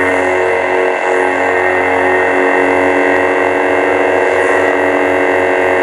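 Lightsaber sound-font hum from a custom saber's soundboard: a steady electric hum of several pitched tones layered over a low drone, wavering slightly as the blade moves.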